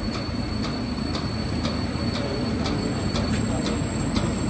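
Automatic fish cake cutting machine running, with a steady motor hum and a constant high whine, and a short click about twice a second from its repeating cutting stroke.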